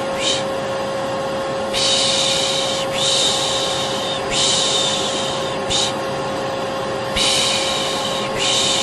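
Vacuum cleaner running steadily with a constant hum, overlaid with a person's repeated 'shh' shushing: about six hisses, most about a second long and a couple brief.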